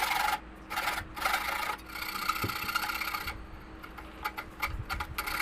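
Hand saw cutting with rasping back-and-forth strokes for about three seconds, then quieter scraping and light taps.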